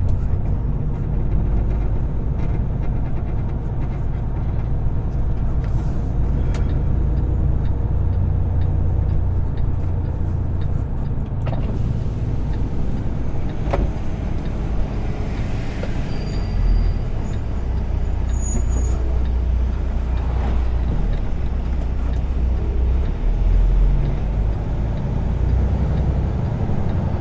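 Semi truck's diesel engine running steadily while driving, a low rumble heard from inside the cab. There are a few light clicks and a brief hiss about fifteen seconds in.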